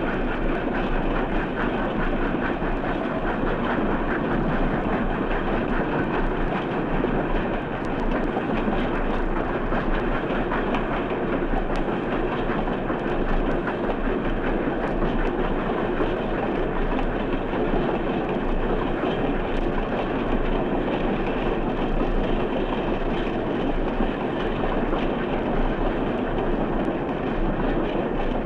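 A train running past on steel rails, a steady heavy rumble with faint rapid clicking of wheels over the rail joints, heard on an old recording with the top end cut off.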